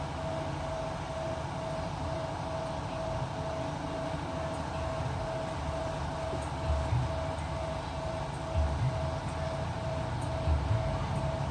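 Strong wind buffeting the microphone: a steady low rumble with three heavier gusts in the second half, over a constant steady hum.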